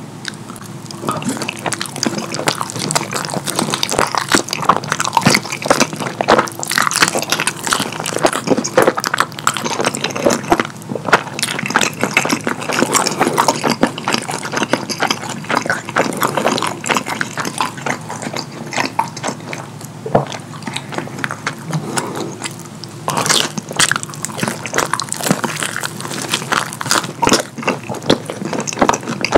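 Close-miked wet chewing and lip-smacking as a person eats pepperoni croissant pizza dipped in cheese sauce: a dense, uneven run of sticky mouth clicks, starting about a second in.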